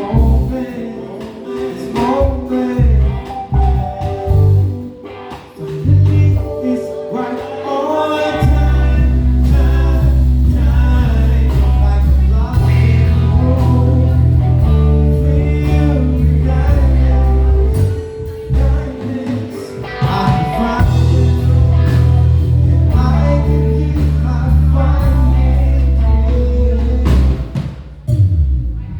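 A live soul band playing an instrumental stretch: bass, drums and keys with a melodic lead line on top. The bass comes in heavy and sustained about a third of the way through.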